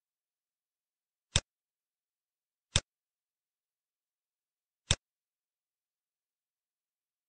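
Three sharp computer mouse clicks, about a second and a half, near three seconds and near five seconds in, as points are picked for a distance measurement.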